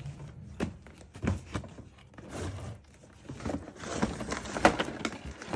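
Toy packaging being handled: irregular knocks, clicks and scraping of cardboard and plastic as a toy truck is worked out of its box, with a sharp knock near the end.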